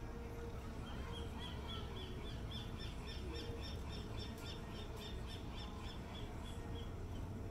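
A bird calling a long run of short, high, evenly repeated notes, about four a second. The run starts about a second in and stops near the end, over a steady low rumble.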